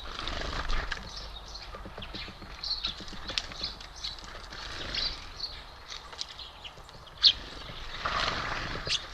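Small birds at a feeder, with many short high chirps and calls over a run of small taps and clicks, and one sharper, louder note about seven seconds in.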